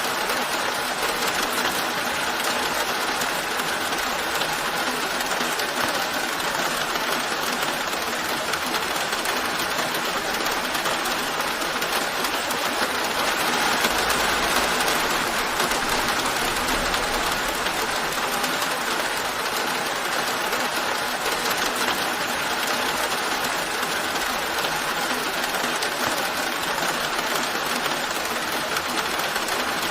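Steady rain falling, an even hiss with no breaks, swelling slightly near the middle where a faint low rumble comes in briefly.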